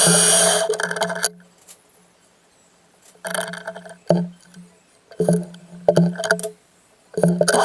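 A metalworking power tool running with a steady hum and hiss. It stops about a second in, runs in several short bursts, then runs steadily again near the end.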